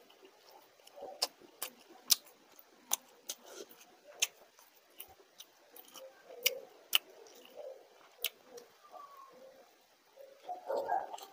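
Close eating sounds: a person chewing with wet mouth and lip clicks, sharp and irregular, about one or two a second. Near the end comes a louder, denser bite and chew into a whole fried fish.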